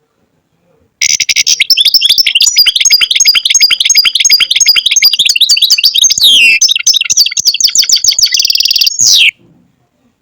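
European goldfinch singing a long, rapid twittering song of fast high notes, starting about a second in and breaking off near the end.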